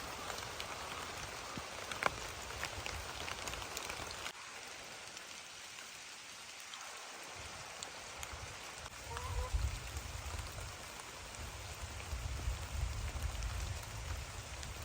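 Steady rain falling, with individual drops ticking on a surface. A low rumble underneath drops away about four seconds in and comes back after about eight seconds.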